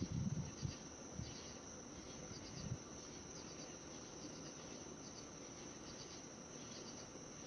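Steady, high-pitched chorus of insects trilling continuously, with a low rumble fading away over about the first second.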